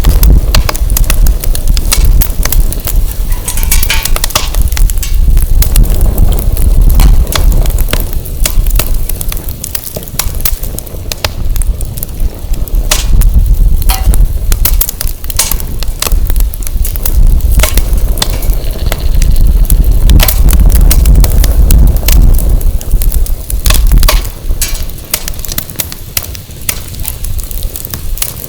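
Firewood burning in a fire pit, crackling with many sharp pops and snaps. Under it a heavy low rumble of wind on the microphone, which eases near the end.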